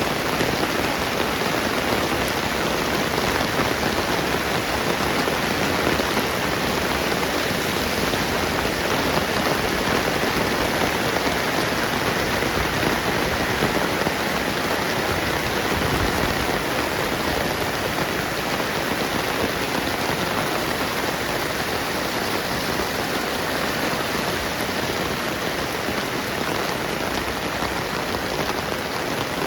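Steady rain falling on the ground and surfaces, a constant even hiss with no letup.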